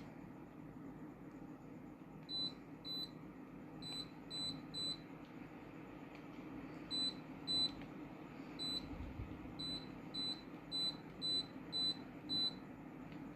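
Air conditioner units beeping to acknowledge remote-control button presses: about fourteen short, high beeps in irregular clusters over a steady low hum.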